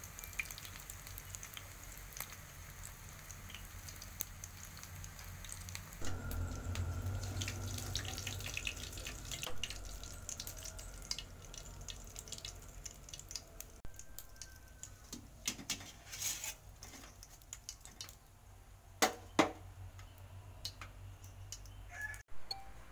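An omelet frying in hot oil in a wok: a steady sizzle full of small crackles and pops, louder for a few seconds about a quarter of the way in, with a few sharp knocks about three-quarters of the way through.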